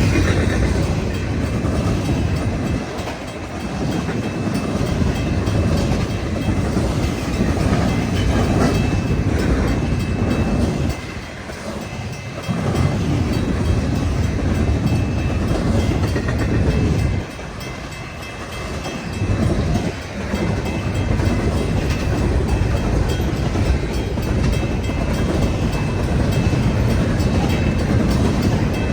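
Freight train cars rolling past at track side: a continuous heavy rumble with the clatter of steel wheels on the rails. The noise drops briefly three times as gaps between cars go by.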